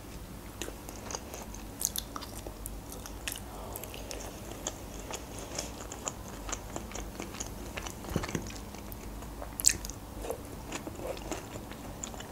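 Close-miked chewing of grilled chicken: a steady run of wet mouth clicks and smacks, with one sharper click about ten seconds in.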